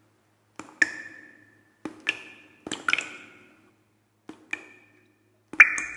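Sparse struck percussion: five pairs of quick hits spaced about a second apart, each ringing briefly with clear tones.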